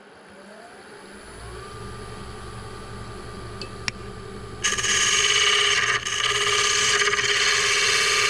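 Wood lathe motor spinning up with a rising whine that levels off into a steady hum; then, a little over four and a half seconds in, a loud rough cutting noise starts suddenly as a turning tool bites into the spinning green poplar.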